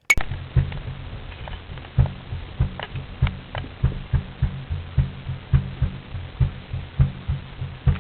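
Old oil well running: a steady low thumping pulse, roughly three beats a second, with faint clicks over it, heard through an old recording that has lost its high end.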